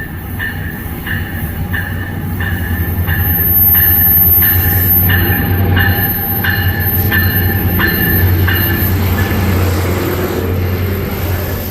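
Commuter train running through the station, its wheels clicking evenly over the rail joints about twice a second over a steady low rumble; the clicking stops about nine seconds in.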